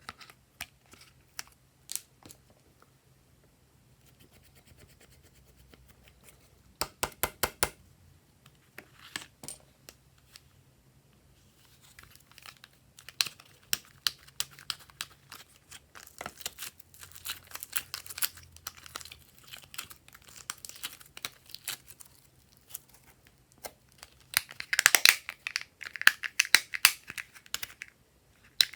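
Glossy slime being worked by hand, making sticky clicks and crackles as it is pressed, stretched and folded. There is a quick run of clicks about seven seconds in, and denser, louder crackling in the last few seconds.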